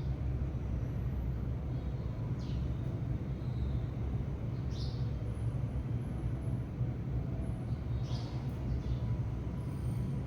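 Steady low background rumble with four short, falling sparrow chirps spread through it.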